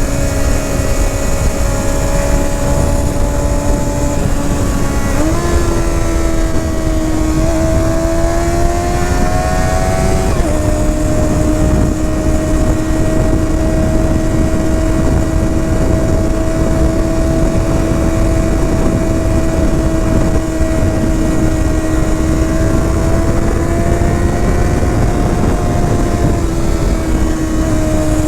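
Honda CBR 650R's inline-four engine and exhaust under way at steady throttle. The engine note steps up about five seconds in and climbs until about ten seconds, then drops sharply and holds level, rising a little and falling back near the end, over a constant low rush of wind.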